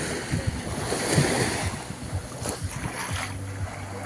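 Small waves washing onto a sandy beach, the wash swelling and fading twice, with wind buffeting the microphone.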